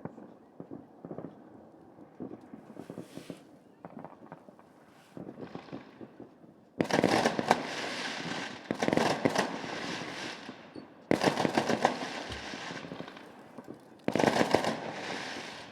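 New Year's fireworks and firecrackers going off. Scattered faint pops at first, then about seven seconds in three loud volleys of rapid crackling bangs, each starting suddenly and fading over a few seconds.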